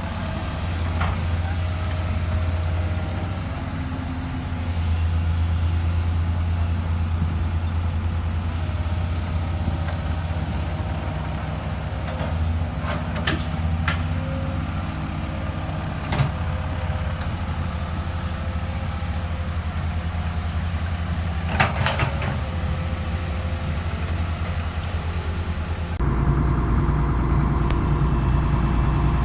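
Heavy diesel excavator engine running steadily, with a few sharp metallic clanks. Near the end it changes to a louder, deeper engine drone.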